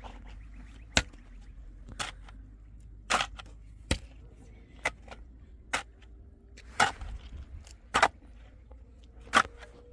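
A series of sharp knocks or taps, about one a second at uneven intervals, over a low steady background noise.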